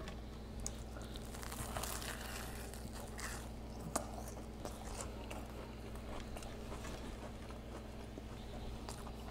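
Close-miked chewing of a deep-fried burrito with a crunchy Hot Cheeto crust: soft, irregular crunches and mouth sounds over a faint steady hum.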